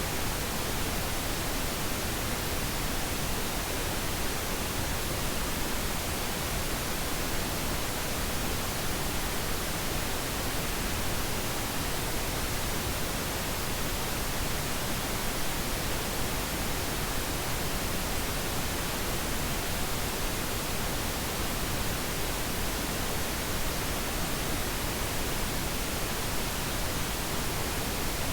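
Steady synthetic pink noise: an even, unchanging hiss spread across all pitches, played as a sleep aid.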